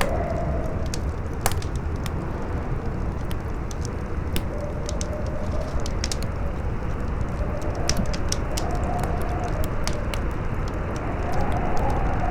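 Campfire crackling with scattered sharp pops, a strong one about a second and a half in, over a howling wind whose whistle wavers up and down in pitch and swells every few seconds, with a steady low rumble of wind underneath.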